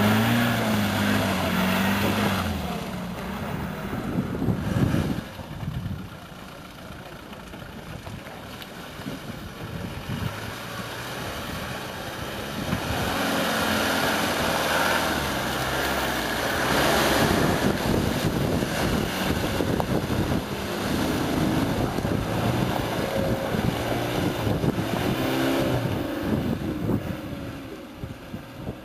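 Land Rover 4x4 engines revving up and down as the vehicles drive slowly through deep mud.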